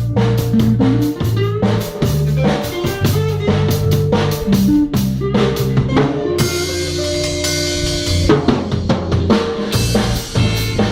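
Instrumental band playing: a drum kit keeps a steady beat with snare and bass drum over bass and guitar. About six seconds in the drums stop for about two seconds under held chords, then come back in.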